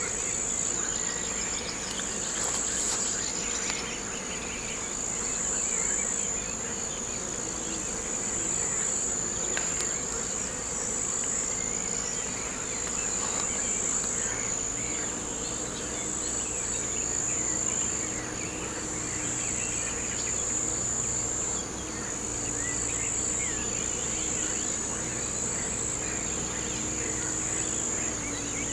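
Insects, crickets by their sound, trilling in a steady high-pitched chorus that swells and dips every few seconds, with scattered short bird chirps underneath.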